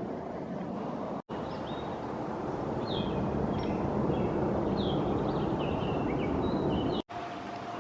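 Songbird calling, a run of short high chirps and slurred notes, over a steady rushing background noise. The sound drops out abruptly twice, about a second in and near the end.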